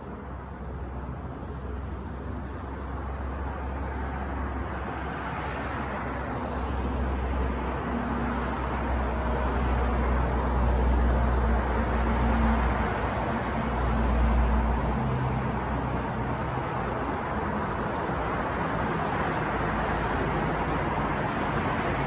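City street traffic: a steady wash of road noise that builds to its loudest around the middle, with a deep low rumble, then settles.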